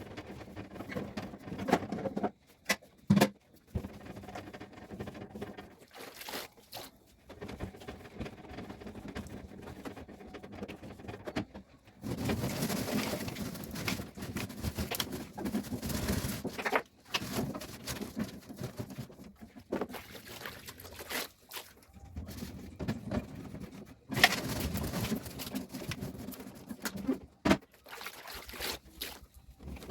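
Hands cleaning inside a fridge: irregular stretches of cloth rubbing and wiping, with a few sharp knocks and clicks of things being handled.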